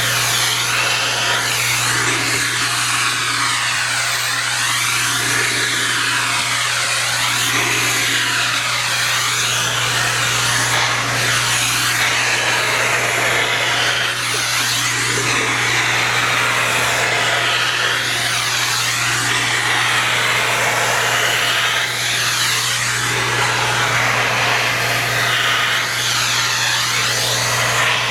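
Vacuum cleaner running steadily while being used on a cat's fur: a constant motor hum under a rush of air that keeps rising and falling in pitch as the nozzle moves.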